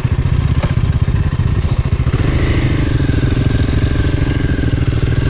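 Royal Enfield Himalayan 450's single-cylinder engine running steadily with a rapid, even pulse. About two seconds in, a higher humming tone joins it.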